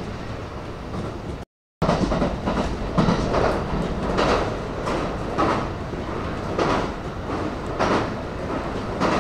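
Electric commuter train running through a station, its wheels clacking over rail joints in a steady beat about once a second over a continuous rumble. The sound drops out briefly about one and a half seconds in.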